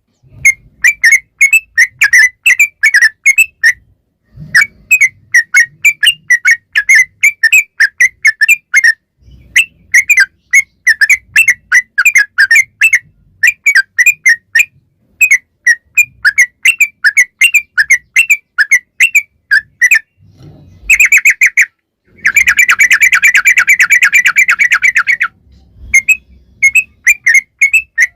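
Yellow-vented bulbul (trucukan) singing its long 'ropel' song: fast, chattering runs of short notes, several each second, in phrases broken by brief pauses. Near the end comes a denser, unbroken run.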